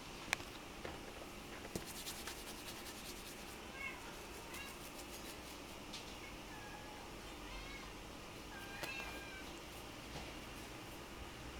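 Munchkin kitten mewing: several short, high-pitched mews spread through the middle of the stretch. A sharp click comes right at the start, and a quick run of faint clicks follows a couple of seconds in.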